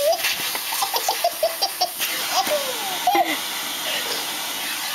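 Baby laughing in quick runs of high giggles over the steady hiss of a running vacuum cleaner; the laughter stops about three seconds in, leaving the vacuum's noise.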